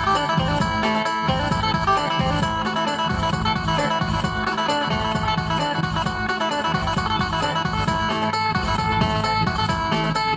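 Isan phin, a plucked Thai lute, playing a quick run of notes over a steady bass and percussion beat.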